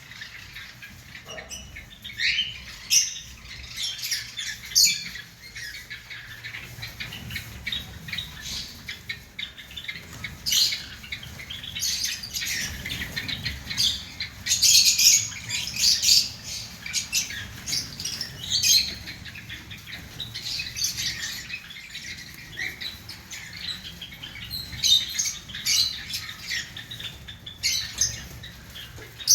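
Java sparrows calling: many short, high chirps and squeaky notes, often several close together, with a few louder bursts of calling about ten to sixteen seconds in and near the end.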